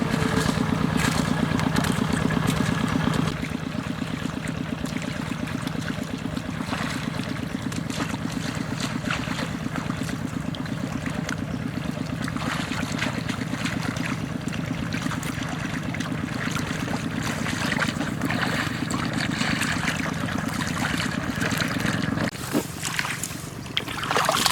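A small boat motor running steadily, then cutting out near the end.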